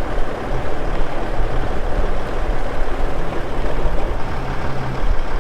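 A vehicle engine running steadily under heavy wind noise on the microphone.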